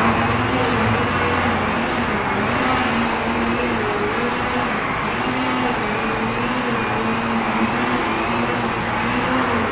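An engine running steadily, its pitch wavering slowly up and down.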